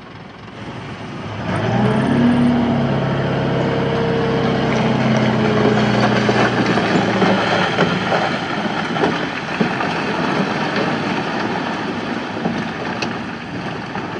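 Diesel engine of heavy earthmoving machinery revving up under load about a second and a half in, with a steady engine note for several seconds, then a dense rumbling noise with scattered knocks.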